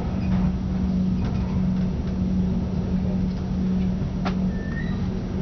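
Regional express train running, heard from inside the carriage: a steady low rumble with a constant hum, and one sharp click about four seconds in.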